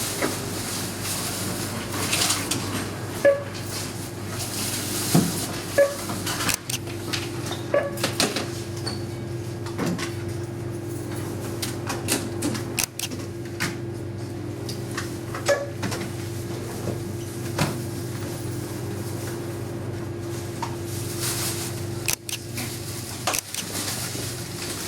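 Scattered knocks and clatter, irregularly spaced, over a steady low electrical hum.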